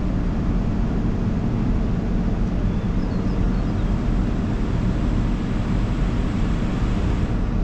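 A heavy engine running steadily, a continuous low rumble with an even hiss above it.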